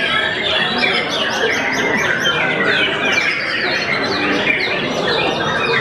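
White-rumped shama (murai batu) singing continuously: a dense, unbroken run of rapid, varied whistles and chattering notes, many sweeping down in pitch.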